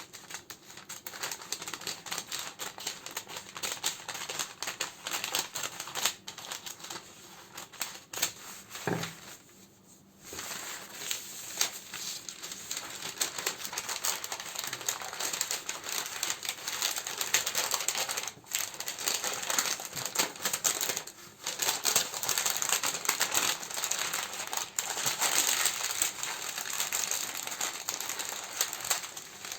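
Plastic and paper candle wrappings crinkling and crackling as they are handled, in dense rapid crackles. There is a brief lull about nine seconds in, then the crinkling comes back busier and louder.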